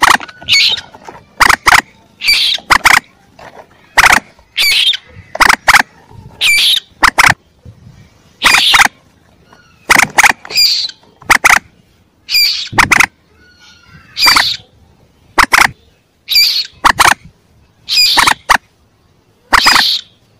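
Young common moorhen (mandar) calling over and over in short, sharp, loud squawks, about one a second and often in quick pairs, played as a lure call.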